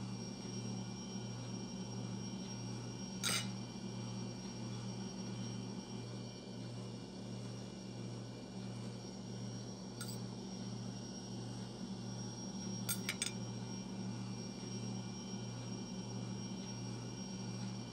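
A low steady hum with a slow regular pulse fills the kitchen. Over it come a few faint clinks of a table knife against a plate: one about three seconds in, one about ten seconds in, and a quick pair near the thirteen-second mark.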